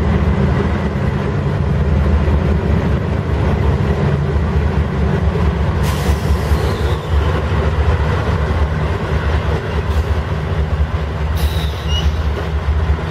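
Canadian Pacific diesel freight locomotives passing slowly while shoving their train in reverse, with the engines running as a steady low rumble. Short higher scraping sounds from the train come about halfway through and again near the end.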